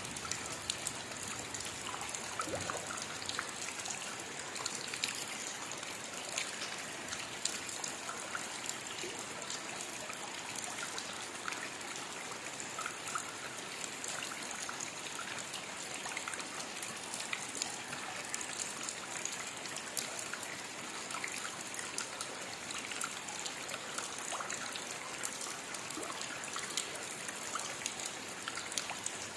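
Steady rainfall, an even hiss of rain with many separate drop hits scattered throughout.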